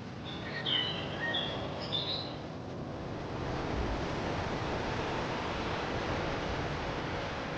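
Small birds chirping in a few short high calls during the first two seconds or so, over a steady rushing noise that grows louder and then holds.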